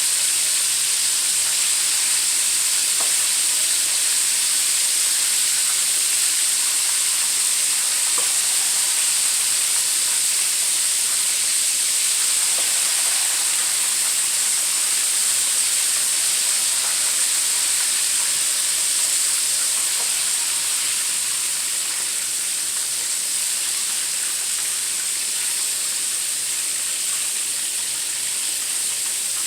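Chicken wings deep-frying in hot oil in a wok: a steady sizzle with faint scattered crackles, easing slightly after about twenty seconds.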